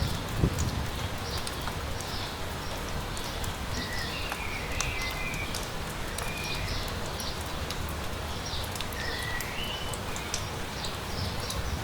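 Footsteps on a wet path at a steady walking pace, about two steps a second, under light rain patter with scattered drop ticks. Short whistled bird calls come in twice, about four and nine seconds in.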